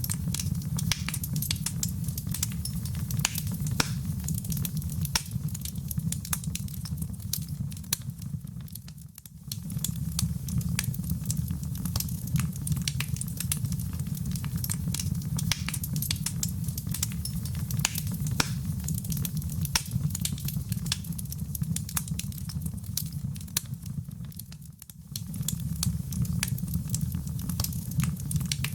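Wood fire burning in a fireplace: a steady low rumble of flames with dense, irregular crackling and popping. The whole sound dips briefly twice, about a third of the way in and near the end.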